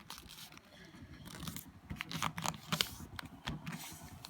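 A sheet of paper being folded and creased by hand: irregular crinkling and rustling, with several short sharp crackles as the folds are pressed flat.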